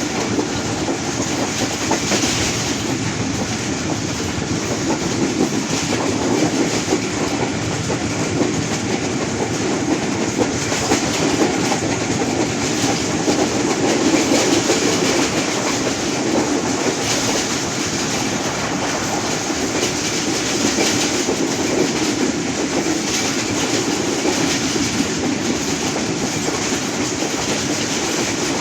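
Moving train running steadily, its wheels clattering over the rail joints in a continuous rumble.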